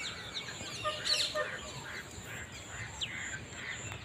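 Several birds calling: a mix of quick chirps and short falling whistles, over a steady high-pitched hum.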